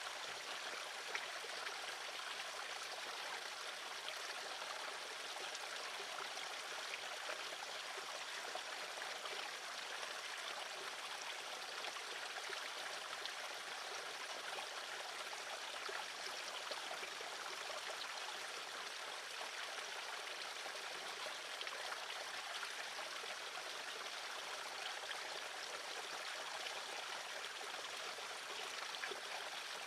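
Steady rushing noise, even and unchanging, like running water.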